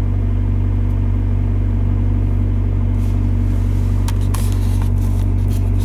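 2005 VW Passat TDI's four-cylinder BHW diesel engine idling steadily while warming up, heard from inside the car, with a few light clicks in the second half.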